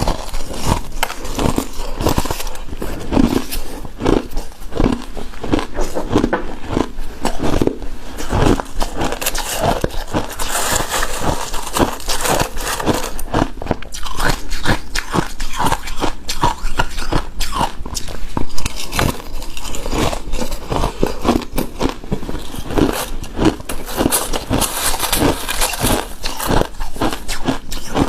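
Close-miked crunching and chewing of shaved ice and snow ice, a dense, irregular run of crisp icy crackles and bites.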